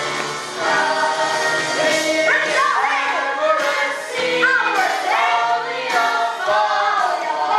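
A cast of young performers singing a show tune in chorus over musical accompaniment.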